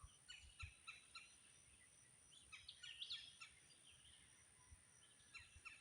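Faint bird calls with a parrot-like quality: clusters of short, sharp, downward-slurred notes in three bouts, near the start, in the middle and near the end. A steady high-pitched tone runs underneath.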